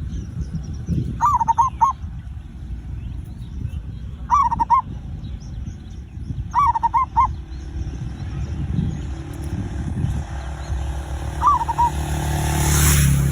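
Zebra dove (perkutut) cooing: four short phrases of a few rolling notes each, a few seconds apart. Faint high chirps and a low rumble lie underneath, and a rush of noise swells near the end.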